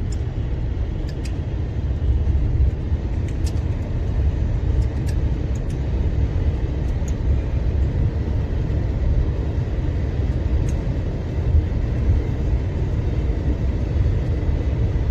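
Inside a moving truck's cab: a steady low drone of engine and road noise, with a few faint light clicks scattered through it.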